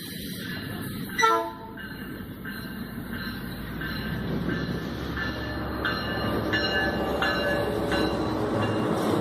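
Passenger train arriving: one short locomotive horn blast about a second in, then the train's rumble growing steadily louder as it approaches, with short high-pitched squeals repeating about twice a second.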